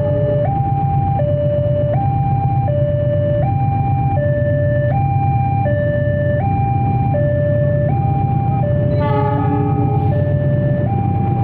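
An electronic two-tone warning alarm alternating steadily between a higher and a lower note, switching about every three-quarters of a second, over the steady low rumble of a slow-moving diesel freight train. A short harsh burst stands out about nine seconds in.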